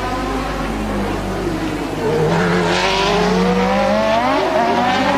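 1988 Formula One race cars' engines at racing speed, several at once, their pitch rising and falling as they brake and accelerate. The sound grows louder about two seconds in as one car's engine note climbs.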